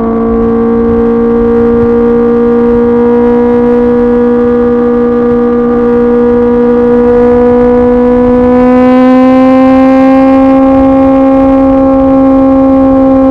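2024 Kawasaki ZX-10R's inline-four engine through an SC-Project CRT exhaust, cruising at steady revs. The pitch rises gradually about two-thirds of the way in as the bike gently accelerates, over a low rush of noise.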